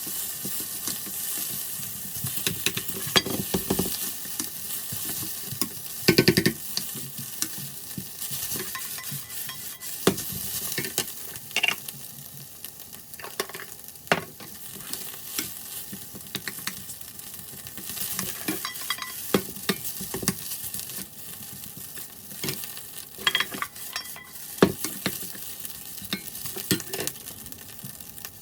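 Egg fried rice sizzling as it is stir-fried in an iron pan, with a spatula scraping and knocking against the pan again and again. It is played at double speed.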